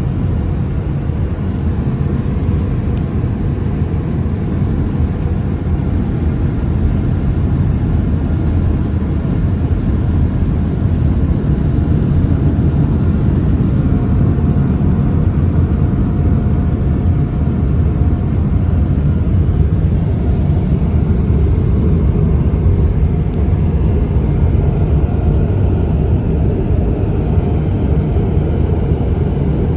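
Automatic car wash machinery running with a loud, steady rumble that builds slightly over the first several seconds, and a faint thin tone in the middle.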